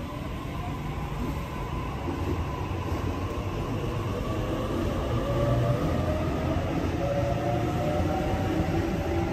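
Double-deck electric suburban train pulling away from the platform and gathering speed. A rumble of wheels on rails grows louder while a faint motor whine climbs in pitch.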